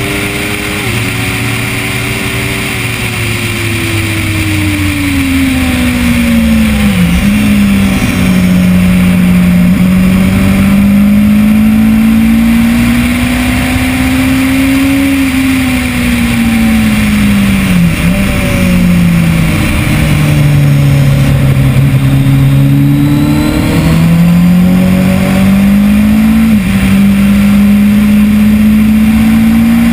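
A 2010 Kawasaki ZX-10R's inline-four engine at full song on track, heard over wind rush. The pitch climbs under acceleration and sags off when the bike slows for corners, with quick gear changes about seven, eighteen and twenty-six seconds in.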